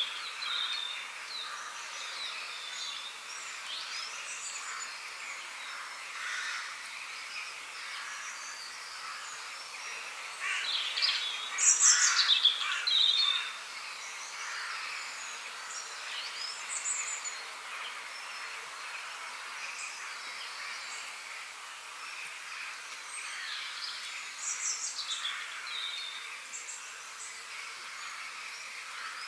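Several birds singing and calling in short chirps and warbles over a steady background hiss, with a louder burst of song about eleven to thirteen seconds in.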